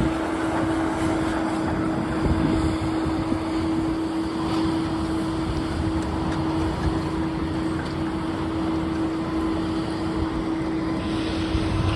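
Heavy demolition machinery, such as an excavator, running steadily, with a constant droning tone over its engine rumble. About eleven seconds in, a higher hiss joins it.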